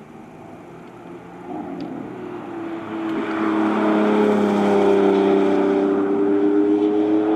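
Lamborghini Revuelto prototype's V12 engine, faint at first, then growing steadily louder for a few seconds as the car comes closer under power, its pitch creeping up and then holding. Road and tyre hiss swells along with it.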